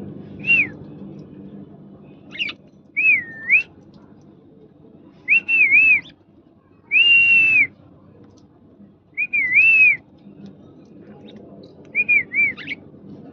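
Pet parrot whistling in about seven short phrases with pauses between them, each a clear tone that dips and rises in pitch.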